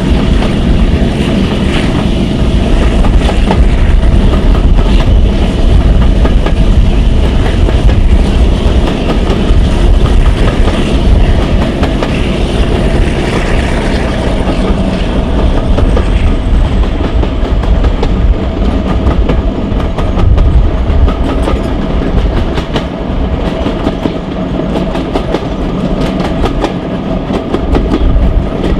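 Coaches of a diesel-hauled train running at speed, heard from an open carriage window: wheels clicking over rail joints, more densely near the end, over the steady drone of the Class 42 Warship's twin Maybach MD650 diesel engines.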